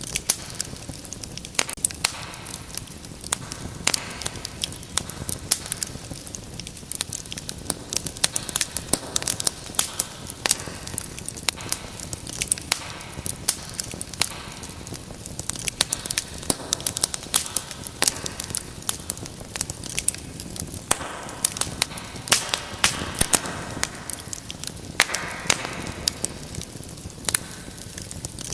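Wood fire burning in a fireplace, crackling and popping: many sharp snaps over a steady rush of flame, with the flames swelling louder several times.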